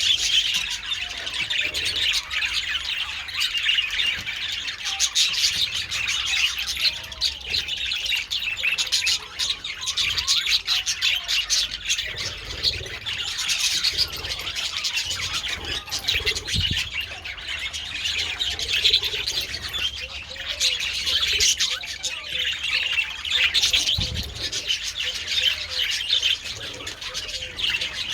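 A flock of budgerigars chattering continuously, many overlapping chirps and warbles with occasional squawks.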